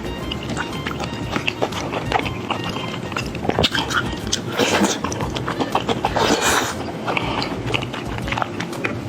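Close-miked eating of sticky rice noodles and wide noodles: wet chewing with many sharp mouth clicks, and two longer slurps around the middle.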